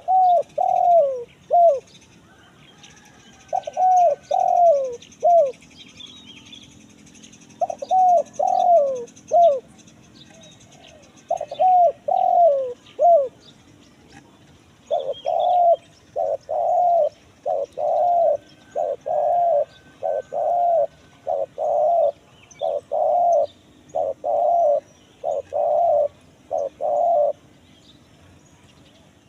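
Spotted dove cooing in the 'kuk 1 mersik' call style: short phrases of three or four coos separated by pauses, then a long run of evenly spaced coos, about one a second, through the second half. Faint chirps of other birds sound above it.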